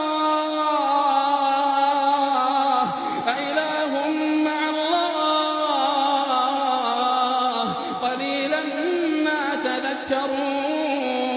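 Male voice reciting the Quran in a slow melodic chant, holding long drawn-out notes that glide gently up and down in pitch.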